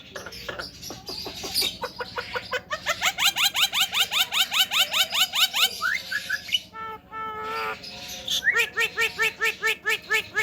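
Javan myna calling: a fast run of short rising notes, about six a second, then a short harsh note and a second run of evenly repeated whistled notes.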